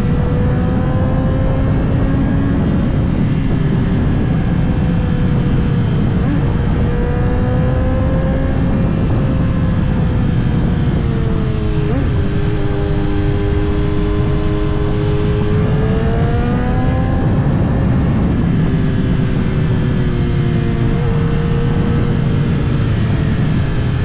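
Kawasaki ZX-10R's inline-four engine running while riding, under a heavy rush of wind noise; its pitch eases down about halfway through and climbs back up a few seconds later.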